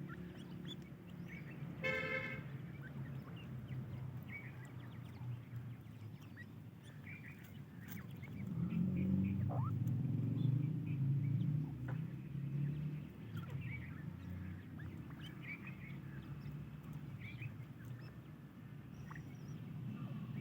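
Francolin (teetar) chicks peeping in short, scattered calls, with one louder buzzy call about two seconds in. A low steady rumble runs underneath and swells for a few seconds partway through.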